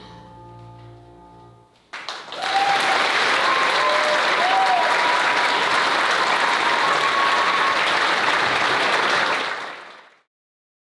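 A held musical chord fades out, then audience applause breaks out about two seconds in. It goes on steadily for about eight seconds before it cuts off suddenly.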